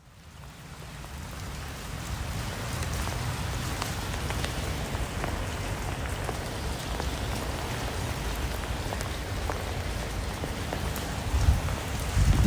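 Steady rain falling, with individual drops ticking through the hiss. It fades in over the first couple of seconds, and a low rumble swells near the end.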